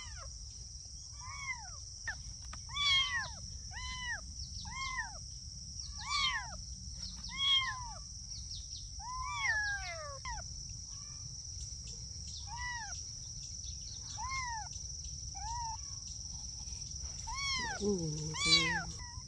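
Kittens mewing over and over, high-pitched calls that each rise and fall, roughly one a second with short gaps.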